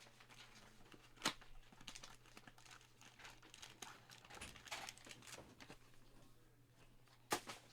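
Trading-card pack wrappers being handled and torn open, crinkling faintly, with two sharper crackles about a second in and near the end.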